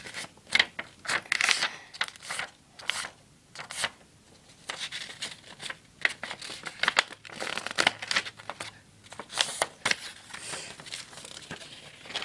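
A sheet of paper being handled and folded by hand, rustling and crinkling in quick, irregular strokes.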